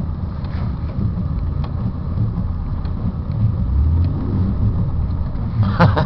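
Vehicle engine and drivetrain running with a steady low rumble, heard from inside the cab, with a short sharp click near the end.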